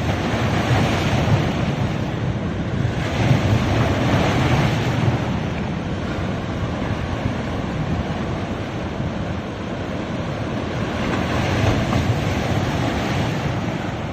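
Sea waves breaking and washing up a beach: a steady rush of surf that swells with each wave, about three times, and eases in between.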